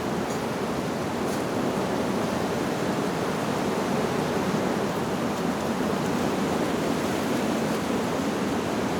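Wind rushing steadily through tree leaves, an even, unbroken whoosh.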